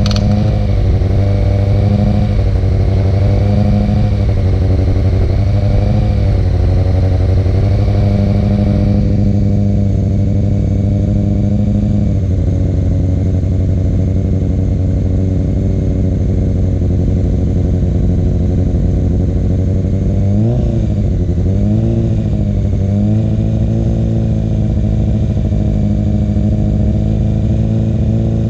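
Harley-Davidson Dyna FXDL's V-twin engine running through Two Brothers Racing (TBR) exhaust pipes, idling with a slightly wavering pitch and given two short throttle blips about 20 and 22 seconds in.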